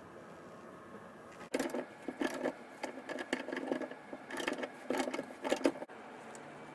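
Irregular clicking and rattling of small hard parts being handled, starting suddenly about one and a half seconds in and stopping sharply near the end.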